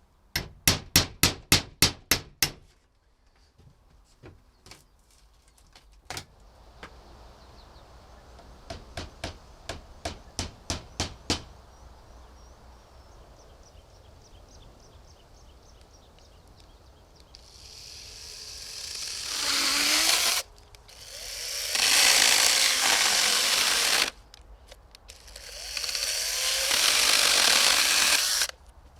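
Quick series of hammer blows on wood, about four a second, then a second run of blows. Later a power tool runs three times for about three seconds each, in work on pallet boards.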